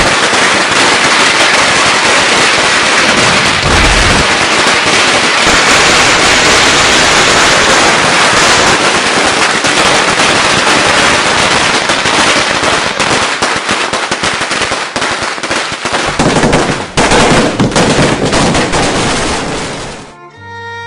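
Firecrackers going off in a loud, dense, continuous crackle of rapid bangs, with a few heavier bangs near the end before it cuts off suddenly.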